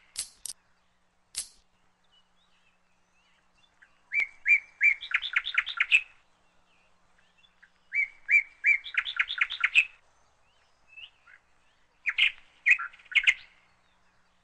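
A bird singing: three phrases of quick chirps, each about two seconds long and roughly four seconds apart. A few light clicks come in the first second and a half.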